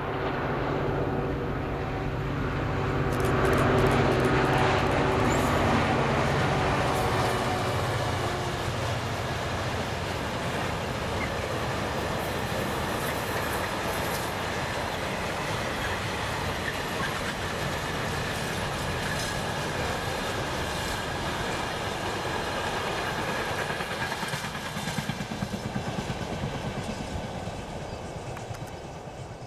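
Class 66 diesel-electric locomotive passing under power, its two-stroke V12 diesel engine loudest about four seconds in. Then comes a long, steady run of container wagons rolling over the rails with scattered clicks from the wheels, fading near the end.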